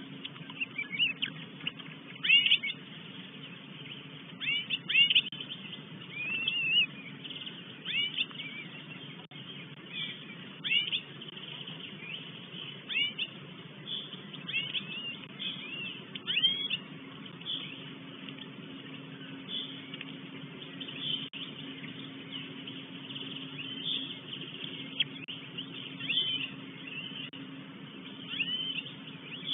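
Short, high bird calls that bend up and down in pitch, repeated at irregular intervals and coming more often in the first half, over a steady low hum.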